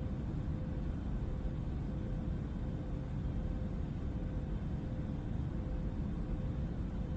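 Steady jet-engine cabin drone, a dense low rumble with a faint steady hum riding above it.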